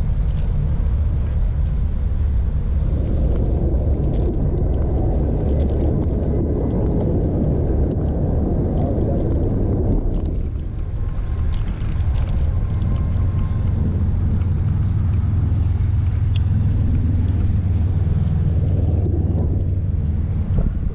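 Steady low rumble of wind and rolling noise from a bicycle ride, picked up by a chest-mounted action camera, with a fuller rushing layer for several seconds in the first half.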